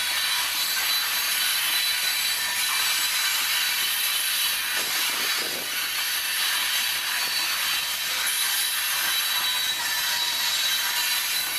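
Freight train of covered hopper cars rolling past: a steady rush of steel wheels on rail, with a thin, high-pitched whine running through it.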